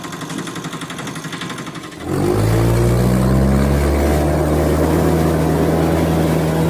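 Engine running: a lighter, evenly ticking run for about two seconds, then a sudden step up to a louder, steady, low engine note that holds to the end.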